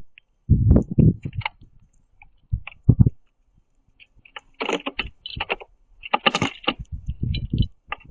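Birds pecking and shuffling on a wooden platform feeder close to the microphone: irregular runs of quick knocks and clicks as beaks strike the boards and seed, busiest about a second in and again from about six seconds in.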